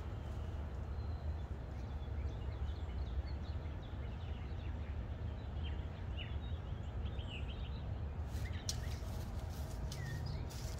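Outdoor ambience: a small bird chirps in short calls over a steady low background rumble. A few sharp clicks come near the end.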